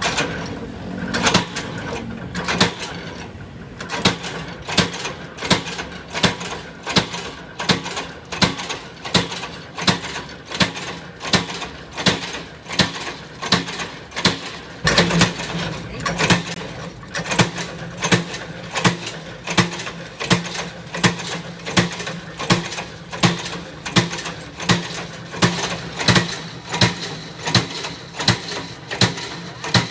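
Sharp knocks repeating at a steady pace, about three every two seconds, like a tool striking metal or stone over and over, over a faint steady hum.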